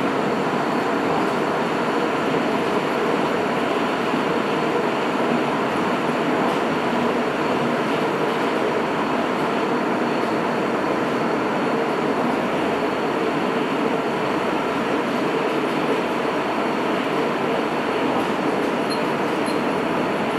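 Sapporo Municipal Subway Namboku Line 5000-series train running steadily at speed between stations, heard inside the car: the even rumble of its rubber tyres and the car body, with a faint steady high whine.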